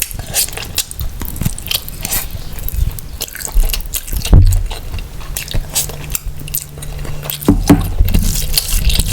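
Close-miked chewing of mutton biryani and curry: wet smacking and clicking mouth sounds, with a louder low thump about four seconds in and two more near the end.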